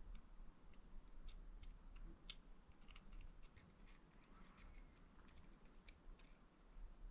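Near silence with faint, scattered light clicks and taps.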